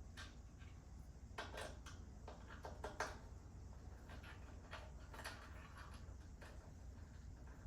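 Faint, scattered clicks and knocks of things being handled, the sharpest about three seconds in.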